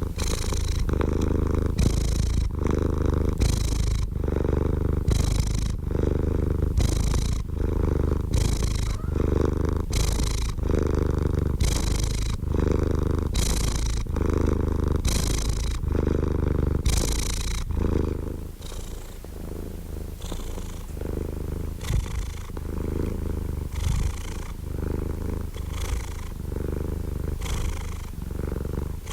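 Domestic cat purring close up, in an even rhythm of about one breath a second, each breath alternating a low rumble with a breathy higher part. The purr gets somewhat softer about two-thirds of the way through.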